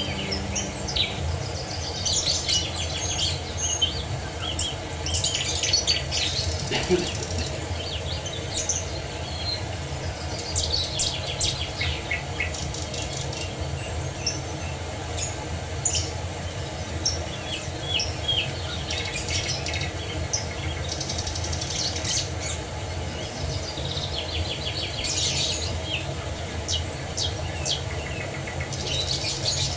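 Several songbirds chirping and trilling in quick, overlapping short calls, over a steady background rush.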